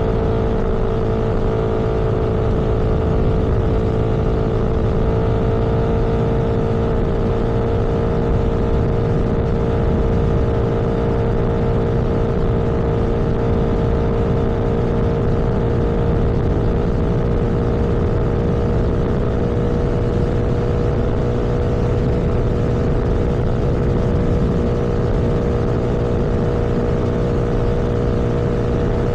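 A vehicle engine running at a steady cruise, its hum holding an even pitch over a low road rumble.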